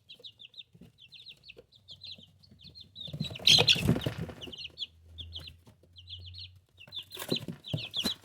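Young pullets peeping and chirping in quick, high trills, with louder scuffling noises about three and a half seconds in and again near the end.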